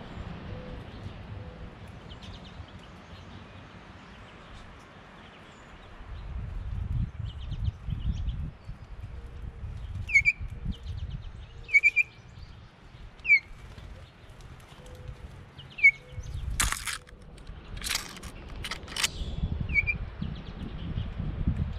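Outdoor wind rumble on the microphone, with a handful of short, sharp bird chirps, each a quick falling note, spaced a second or two apart through the second half. A cluster of loud sharp noises comes close to the microphone about three quarters of the way through.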